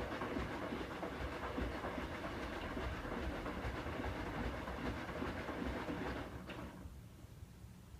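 Hoover WDYN 11746 PG8 washer-dryer working through its first rinse: a steady mechanical and water noise that cuts off about six and a half seconds in, leaving a quieter low hum.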